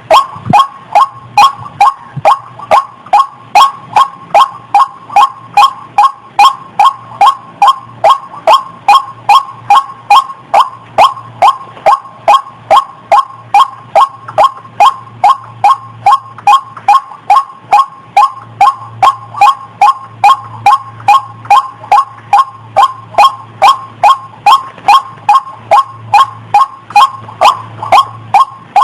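Female waterhen (ruak-ruak) calling, short sharp notes repeated evenly at about two a second without a break. This is a breeding-condition female's call, used as a lure for the birds. A faint low hum runs underneath.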